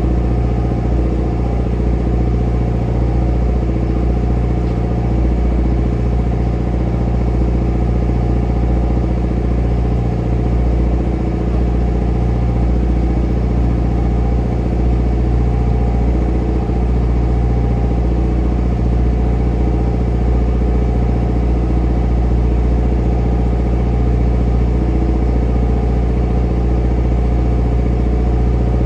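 Trawler's inboard engine running steadily at a constant speed, a deep, even drone.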